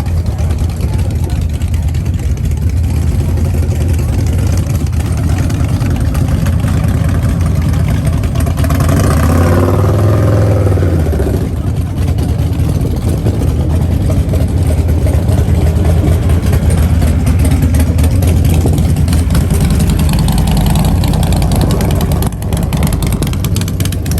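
A car engine running with a deep, steady rumble. It swells briefly about nine seconds in, then settles back to the same steady running.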